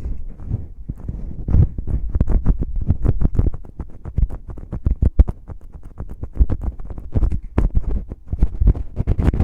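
Fingers rubbing, scratching and tapping directly on a microphone's ear, giving fast, irregular scratchy strokes with deep muffled thuds.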